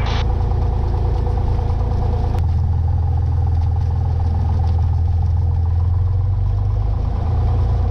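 Cessna 182 Skylane's piston engine and propeller running steadily at low power while taxiing. A brief click comes about two and a half seconds in, where the engine's low note changes.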